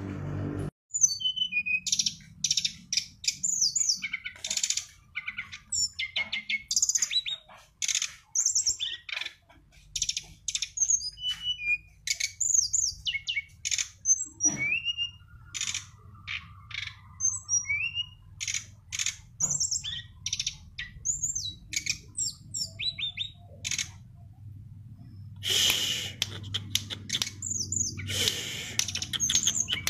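Songbird singing a fast, varied stream of high chirps, whistles and quick rising and falling notes. Harsher, raspier notes come near the end, over a steady low hum.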